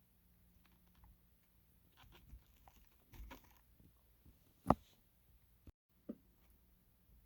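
Small plastic model locomotive parts being handled and fitted: scattered faint clicks and taps, with one sharp click a little under five seconds in and a smaller one about a second later.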